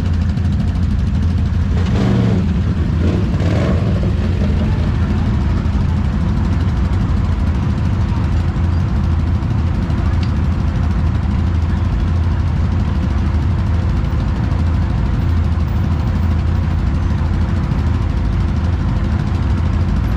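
Off-road vehicle engine running at a steady pace, a constant low drone with no revving up or down.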